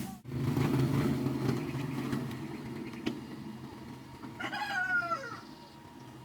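A steady low motor drone that slowly fades, with a short animal call falling in pitch about four and a half seconds in.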